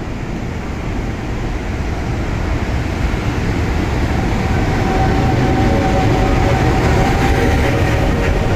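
Freight train running through the station without stopping, a steady rumble that grows gradually louder. About four seconds in, a faint steady whine joins the rumble.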